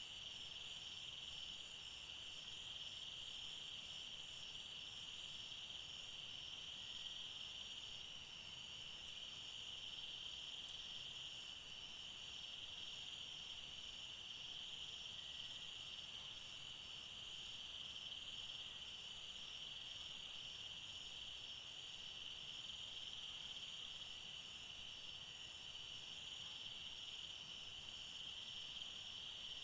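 A steady chorus of forest insects: a continuous high, shrill trill, with a fainter, higher layer of rapid pulsing chirps running through it.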